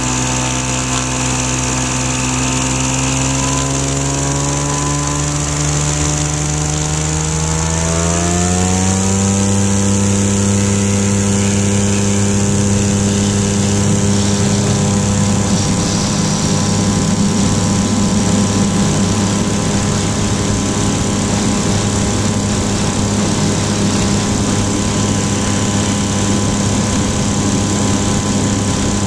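Flightstar II light sport aircraft's engine and propeller running. The engine note climbs steadily over the first nine seconds or so as the engine speeds up, then holds at a steady higher speed.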